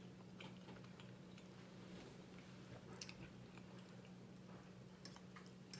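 Faint close-up chewing of a mouthful of fried pork chop, with a few soft mouth clicks and smacks scattered through, over a low steady hum.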